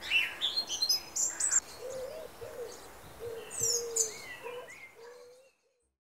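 Birds calling: quick high chirps over a lower, wavering call. The sound fades out shortly before the end.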